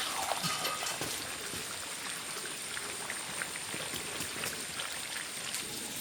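Pieces of pork frying in their own rendered fat, sizzling steadily with small crackles.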